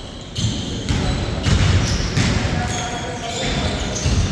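Basketball game: a ball bouncing on the court amid players' voices calling out.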